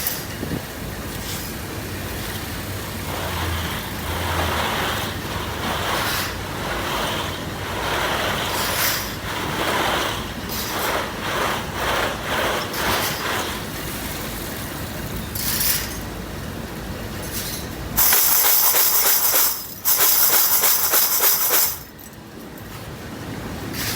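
Factory machinery running with irregular clattering, then two loud bursts of hissing, one about eighteen seconds in and another right after it, each cutting off sharply.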